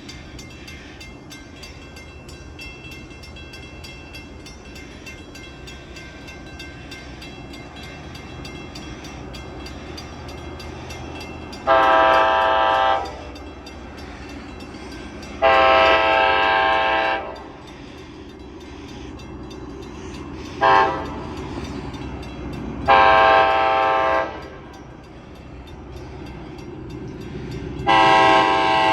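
Nathan K5LA air horn on a New York and Atlantic GP38-2 freight locomotive sounding the grade-crossing signal, a chord of several notes: two long blasts, one short, one long, then another long blast starting near the end. Underneath, the locomotive's rumble slowly grows louder as the train approaches.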